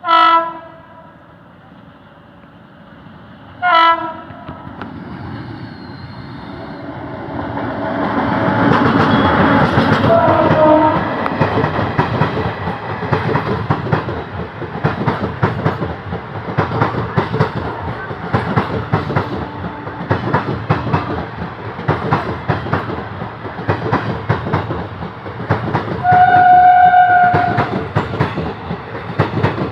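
Two short train horn blasts, then a train comes up and passes close by, its wheels clattering rhythmically over the rail joints for the rest of the time, with one longer horn blast near the end.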